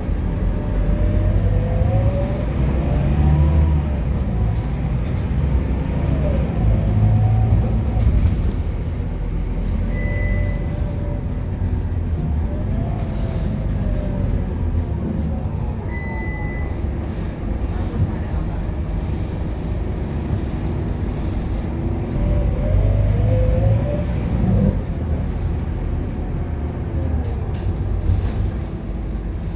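Scania K230UB city bus's diesel engine pulling hard under acceleration. Its pitch winds up and drops back several times as it shifts up through the gears. Two short high beeps sound about ten and sixteen seconds in.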